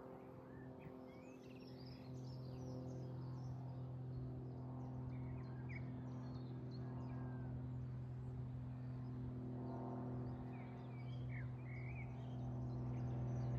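Small birds chirping and calling in short, scattered notes over a steady low hum, which gets louder about two seconds in.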